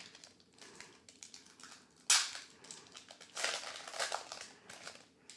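Foil booster pack wrapper of a Magic: The Gathering collector booster being torn open and crinkled. There is a sudden loud rip about two seconds in, then more crinkling a second later.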